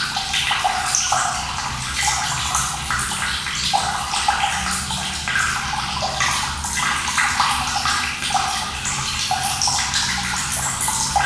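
Running water pouring and splashing steadily, with many small splashes through a continuous rush.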